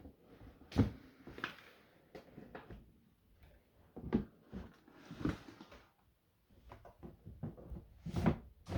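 Handling clatter of a reptile enclosure being worked: a series of irregular knocks and clicks, about five of them louder than the rest.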